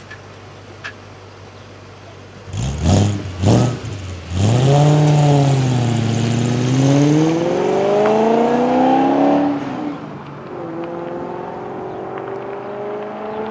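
Audi S4 B6 4.2-litre V8 through JHM headers and a non-resonated Milltek exhaust: a low idle, two quick throttle blips about three seconds in, then a long hard pull whose pitch climbs until the throttle is lifted about ten seconds in, after which the engine goes on at a quieter, steadily rising note.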